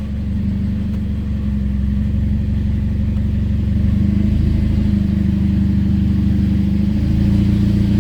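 Hyundai Elantra's engine running steadily, getting a little louder about four seconds in.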